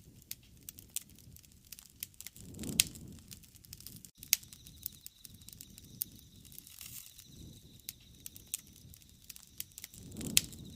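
Wood fire crackling, with irregular sharp pops and snaps. A low rushing swell rises twice, about three seconds in and near the end.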